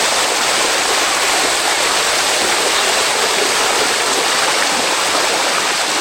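Water running steadily down a limestone waterfall cascade, an even rushing and splashing.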